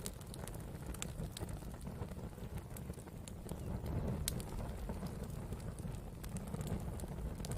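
Campfire of burning wood crackling: scattered sharp pops and snaps over a steady low rumble.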